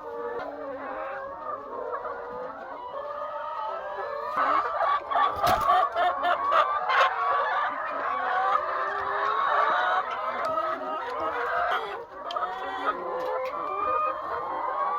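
A flock of chickens clucking and calling over one another without a break. A run of sharp clicks or knocks comes about four to seven seconds in, the loudest about five and a half seconds in.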